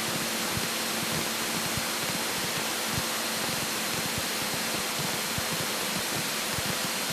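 Steady cabin drone of a Cessna 172K in cruise: the Lycoming four-cylinder engine and propeller running with rushing airflow, even and unchanging, with a faint steady hum under it.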